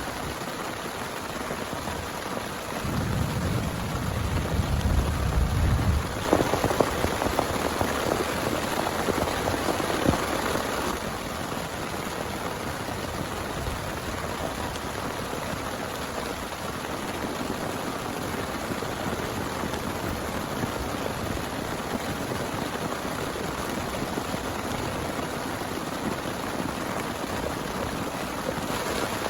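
Heavy rain falling steadily. About three seconds in, a low rumble of thunder rolls for a few seconds, followed by a louder spell that fades back to the steady rain by about eleven seconds.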